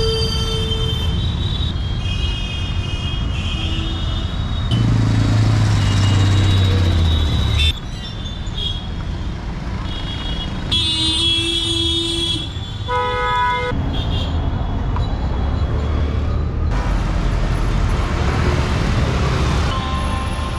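Busy road traffic with vehicle horns honking repeatedly over the running of engines. The mix changes abruptly every few seconds.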